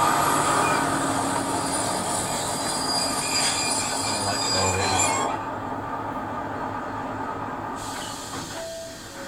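A train running on the rails, with the high squeal of its wheels over a steady rumble, heard from a film's soundtrack. About five seconds in the squeal drops away and a duller, quieter rumble goes on, fading.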